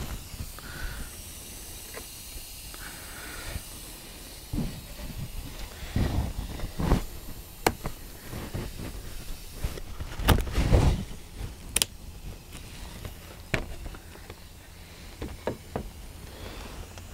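Wooden beehive frame parts being handled and pressed together: scattered taps and clicks, with louder knocks about six to seven seconds in and again around ten to eleven seconds in.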